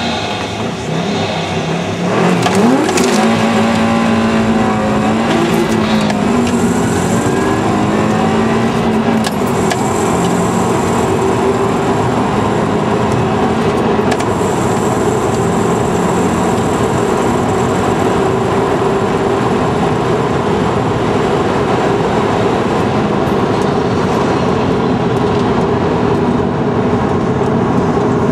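Turbocharged flat-four engine of a 2009 Subaru WRX, heard from inside the car, launching hard from a stop about two seconds in. It revs up through the gears with quick shifts, then holds a long, steady high-speed pull with engine and road noise.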